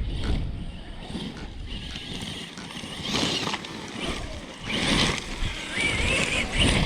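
Large RC basher truck's Castle 1721 brushless motor whining in repeated throttle surges, its pitch wavering up and down in the last surge, with a low rumble of wind on the microphone in the first couple of seconds.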